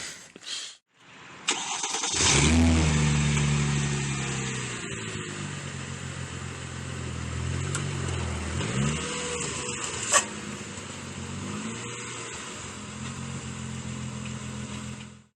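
Chrysler Crossfire's Mercedes-built 3.2-litre V6 starting after a fresh oil change. A click comes about a second and a half in, the engine catches with a brief surge in revs, then settles into a steady idle.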